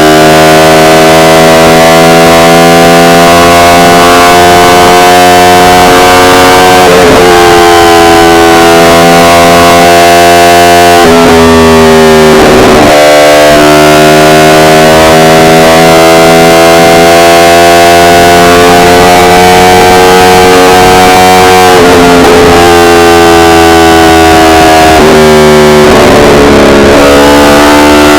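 Yamaha R1 inline-four engine under way, its note climbing slowly with the throttle and dipping sharply in pitch four times before picking up again. The recording is loud enough to distort.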